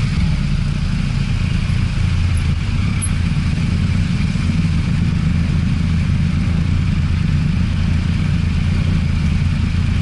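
Motorcycle engine running steadily, with constant road and wind noise.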